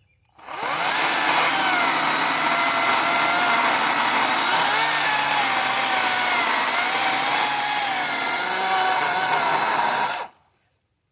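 Kobalt 40V Max cordless electric chainsaw spinning up with a rising whine about half a second in, then cutting into a cedar trunk, its motor whine wavering under load. It stops suddenly near the end.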